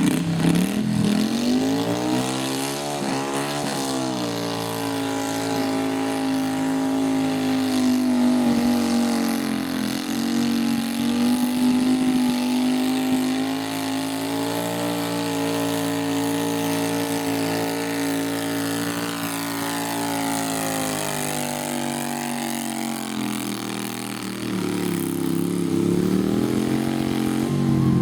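Garden tractor engine running hard under load in a pull. Its pitch climbs at the start, dips briefly about three and a half seconds in, holds fairly steady, then drops about three-quarters of the way through and climbs again near the end.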